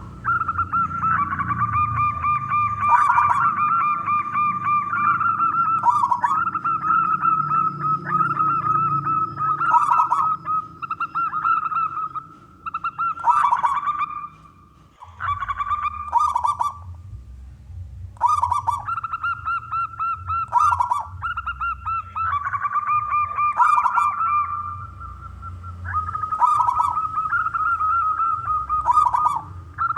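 Zebra dove (perkutut) cooing over and over: rolling, trilled coo phrases one after another, with short pauses about halfway through.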